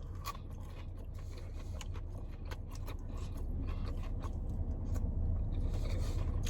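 Close-up chewing of crispy fried chicken nuggets, with irregular crunches and small wet clicks, over a steady low hum.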